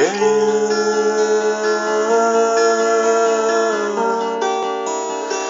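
Acoustic guitar accompaniment between sung lines of a song. A chord rings on and holds steady, then changes about four seconds in.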